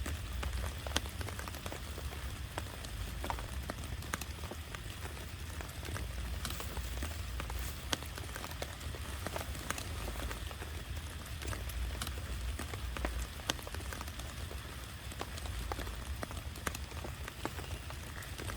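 Heavy rain falling steadily, with many sharp, separate drop hits ticking on a nearby surface.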